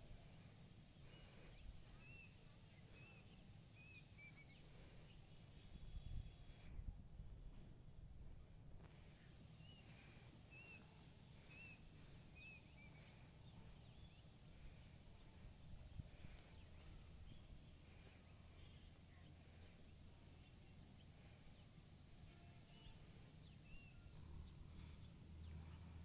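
Near silence: faint outdoor ambience with a small bird repeating a short call in two brief runs, plus faint scattered high ticks.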